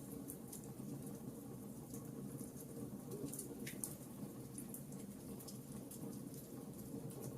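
Wood fire crackling: frequent small sharp pops and snaps over a steady low hiss of burning.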